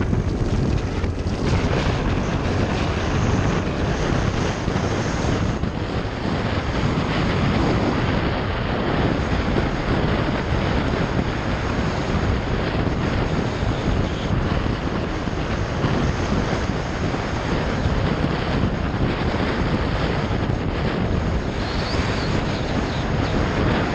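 Wind rushing steadily over the microphone of a motorbike under way, with its engine running beneath.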